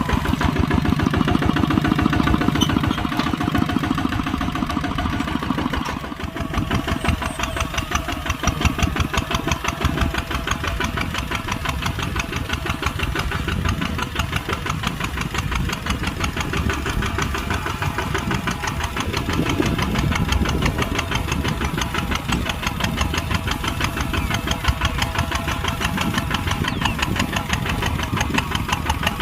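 Kubota tractor's diesel engine running steadily, its firing heard as a fast, even clatter. About six seconds in the sound dips briefly and the deeper drone changes.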